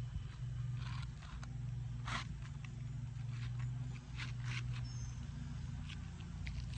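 Asphalt shingles being handled and scraped as a new shingle is worked into place: short, scattered rasps, the strongest about two seconds in, over a steady low hum.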